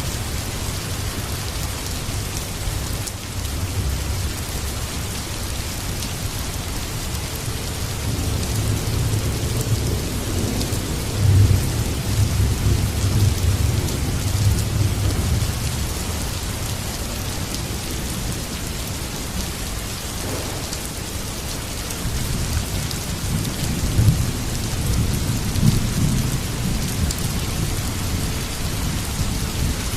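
Heavy rain falling steadily, with low rolling thunder swelling in twice: a long rumble from about eight seconds in and another about twenty-three seconds in.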